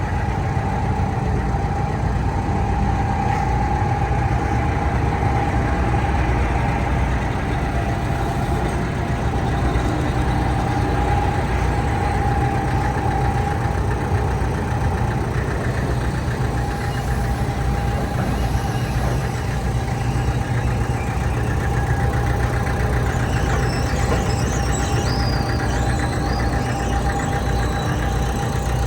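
Hitachi ZX330LC-3 excavator's diesel engine running steadily at idle, a continuous low rumble with a steady whine over it.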